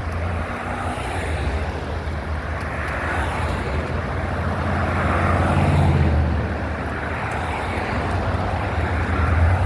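Freight train rolling past a road crossing: a steady low rumble of cars on the rails, swelling a little about halfway through and again near the end.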